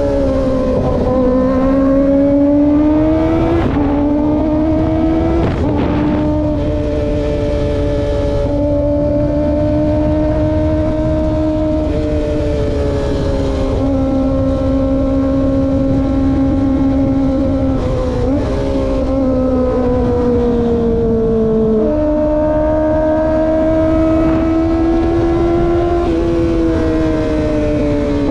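Kawasaki ZX-25R's 250 cc inline-four engine running at high revs while riding, its high-pitched tone holding fairly steady with several sudden steps in pitch. Heavy wind rumble underneath.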